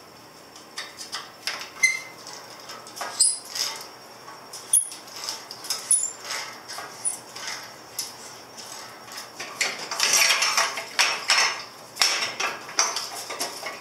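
Hand wrenches clinking and clicking against the bolts and metal exhaust of a Yamaha Virago 250 motorcycle as the exhaust is unbolted and worked loose. There is a steady string of sharp metallic clicks, with a quick, dense run of clicking near the end.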